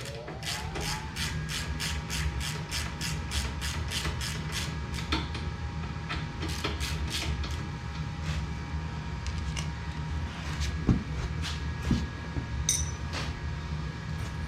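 Hand ratchet wrench clicking quickly and evenly, about four clicks a second, as bolts on a mini bike's brake rotor are turned, slowing to scattered clicks and taps after the halfway point. A steady low hum runs underneath, with a tone that rises in pitch near the start and then holds.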